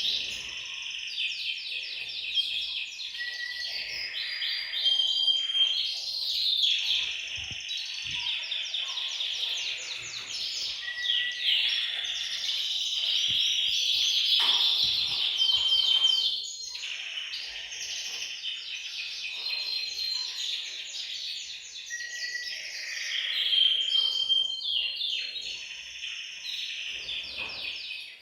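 Several male canaries singing at once: overlapping rapid trills and rolls, broken here and there by short held whistle notes.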